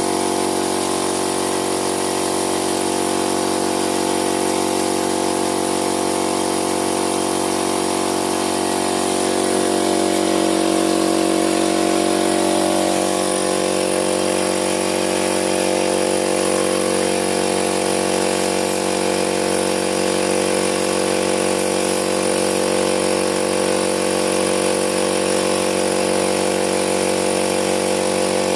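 A motor running steadily, with a pitch shift about ten seconds in before it settles again.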